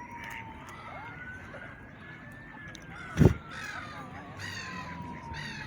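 Birds giving harsh cawing calls, a quick run of short caws in the second half. There is a single loud thump about three seconds in.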